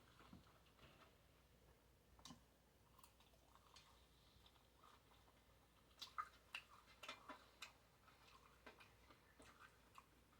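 Faint, sparse wet mouth clicks of someone chewing a bacon cheeseburger, with a quick run of clicks about six to eight seconds in.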